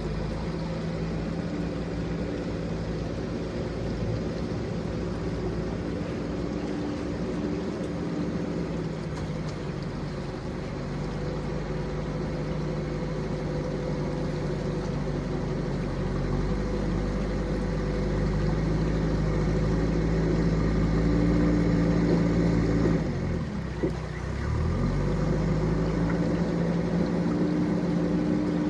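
Engine of a heavy machine running steadily, slowly growing louder; about three-quarters of the way through, its revs dip briefly and then climb back.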